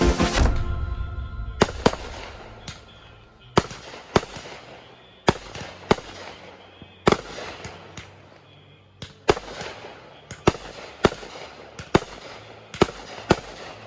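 Fireworks going off: a string of sharp cracks and pops at irregular intervals, roughly one every half second to second and a half.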